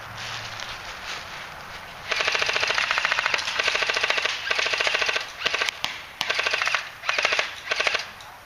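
Airsoft gun firing on full auto: rapid, evenly spaced shots beginning about two seconds in, first in a long string and then in several shorter bursts.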